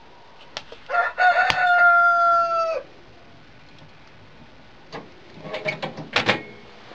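A rooster crowing once, a long call held at a steady pitch that drops off at its end, starting about a second in. A few short, choppy calls follow near the end.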